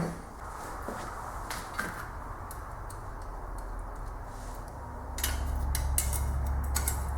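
Light metallic clinks and taps of bolts and hand tools as the flexplate bolts are threaded into the crankshaft, over a low steady hum that grows louder about five seconds in.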